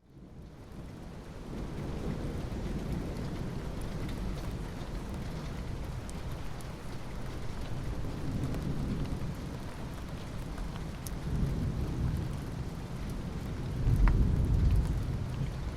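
Steady rain fading in from silence, with low rolling rumbles of thunder swelling three times, the last and loudest near the end.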